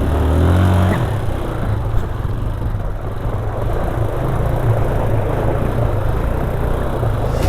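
Motorcycle engine running as it is ridden over rough, rocky ground. The engine note rises in the first second, then carries on under a steady rough rushing noise.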